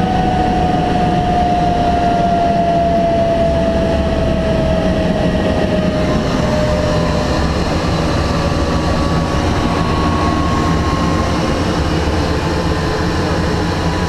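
Helicopter in flight: a steady, loud rotor and engine drone, with a thin tone that slides slowly down in pitch over the first half.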